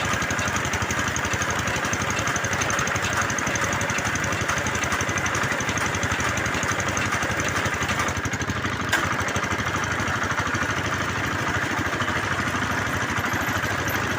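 Small engine of a bore-well drilling rig running steadily, with one sharp knock about nine seconds in.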